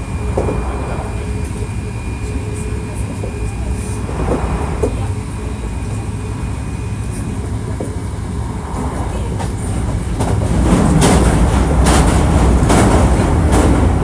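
Hankyu 1300 series electric train running at speed, heard from inside the car: a steady rumble of wheels on rail with a faint steady whine from the drive. About ten seconds in the noise grows louder and rougher with a clatter of wheels over joints.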